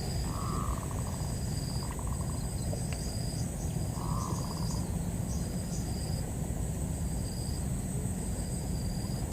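Insects chirping and droning in the countryside: a steady high drone with short chirps repeating about once a second, over a low steady rumble. Two brief soft hoots come about half a second and four seconds in.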